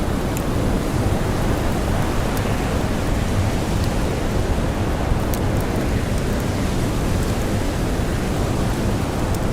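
Blizzard wind blowing steadily as a dense, low-heavy rush of noise, with a few faint, sparse crackles from a campfire.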